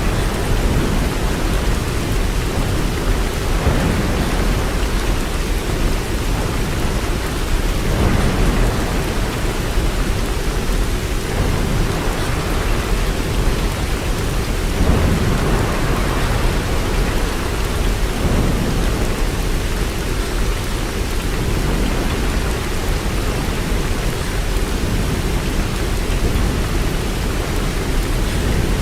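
Steady heavy rain, an even hiss over a deep low rumble that swells and fades every few seconds.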